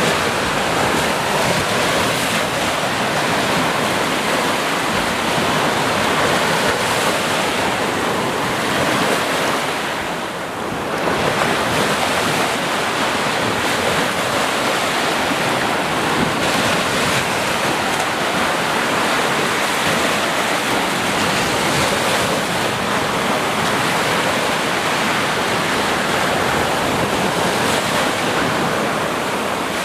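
Ocean surf: a steady wash of breaking waves, with one brief lull about ten seconds in.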